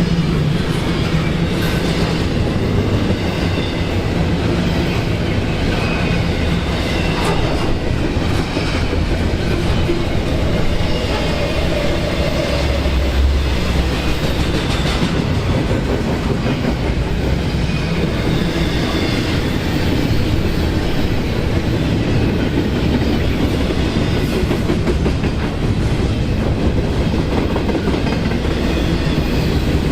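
A train rolling steadily past at close range, its cars' wheels clattering over the rails without a break.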